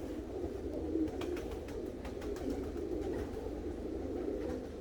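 Tippler pigeons in a loft cooing, a steady low murmur of overlapping coos with a few faint clicks.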